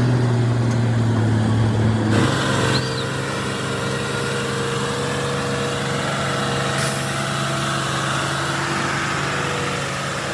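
Heavy vehicle engine running steadily. The sound shifts abruptly about two seconds in to another steady engine drone, and a hiss joins it about seven seconds in.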